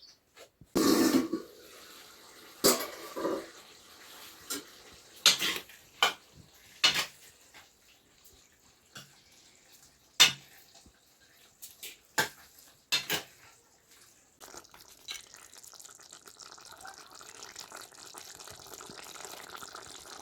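Pots, pans and utensils knocking and clinking in a run of sharp separate clatters, then a steady run of water over the last several seconds.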